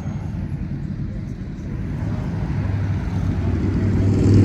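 Low rumble of a car engine cruising at low speed, growing louder in the second half as the car approaches.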